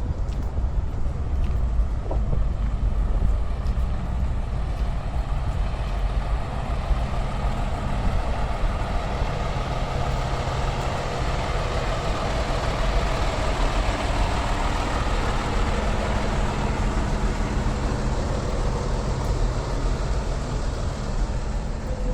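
A truck engine running steadily at low pitch. A broader vehicle rumble swells in about a quarter of the way through and fades again after the middle, like a vehicle moving past.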